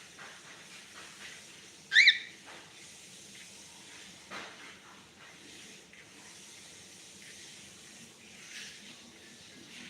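Cockatiel giving one short, loud chirp about two seconds in, over a faint steady hiss.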